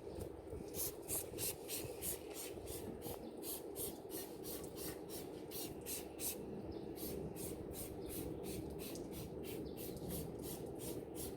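Rhythmic back-and-forth scrubbing of greasy barbecue tools, about three strokes a second.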